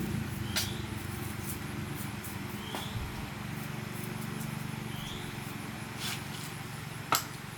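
A steady low mechanical hum, with a few sharp taps, the loudest near the end.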